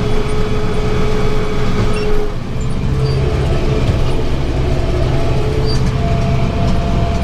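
Tractor engine and round baler running steadily, heard from inside the cab. A steady whine stops about two seconds in, with a brief change in loudness, after which the engine note settles and a higher tone comes in later.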